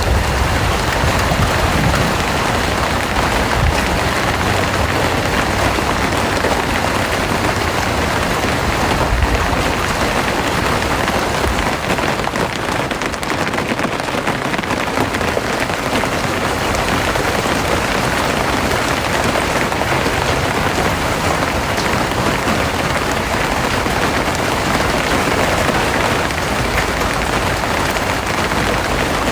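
Rain falling steadily in a dense, even patter. A low rumble underneath in roughly the first ten seconds fades away.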